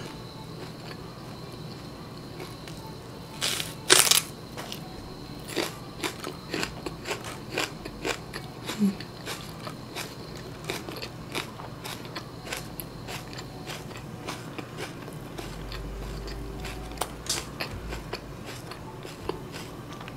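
Biting into a raw green onion stalk: two loud crunches about four seconds in, then chewing with many small crunchy clicks.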